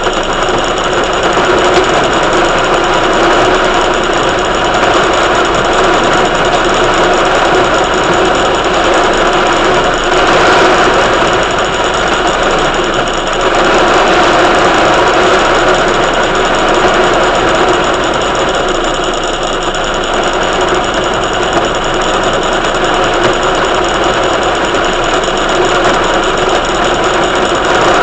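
A steady, loud engine-like running noise with a constant mix of fixed tones over a dense hiss, swelling slightly midway.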